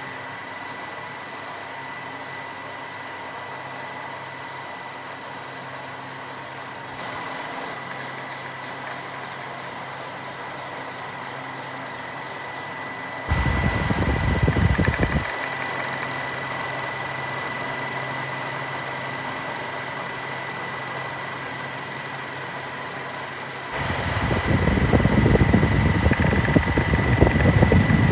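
Boxer 12-inch box fan (model BF-12T2) running with a steady motor hum, its sound shifting slightly about seven seconds in. Twice its airflow buffets the microphone with a loud rumble: for about two seconds near the middle, and again over the last four seconds.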